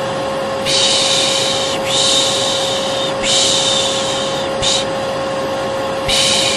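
A vacuum cleaner runs steadily with a constant hum. Over it a person makes repeated long 'shhh' shushes with short breaks between them: about four drawn-out shushes and one brief one. This is the 'piş piş' hushing used to soothe a baby.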